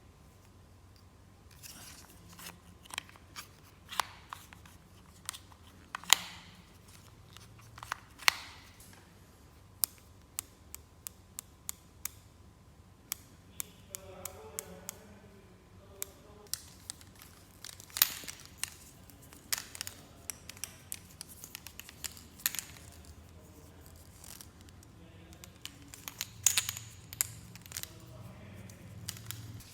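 Toy packaging and plastic playset pieces being handled: an irregular string of sharp clicks and snips, with short spells of crinkling and tearing.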